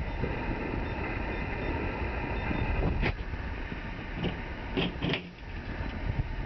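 Handling and rummaging noise: a steady low rumble with a few sharp clicks and knocks, the last two close together, as things are moved about.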